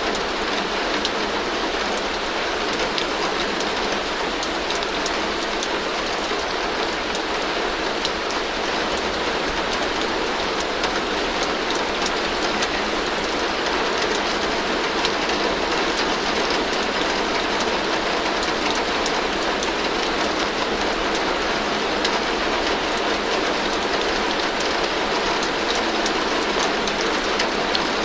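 Heavy rain falling steadily on a tin roof: a constant dense patter of drops striking the metal sheets.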